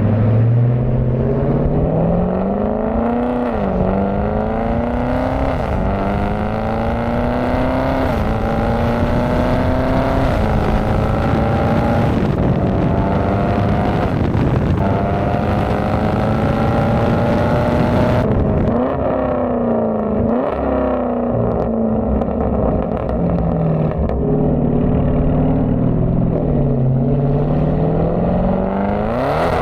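Dodge Charger Scat Pack's 6.4-litre HEMI V8 exhaust accelerating through several gears, its pitch climbing and then dropping at each upshift. In the second half it eases off, the pitch falling with short blips as the car slows.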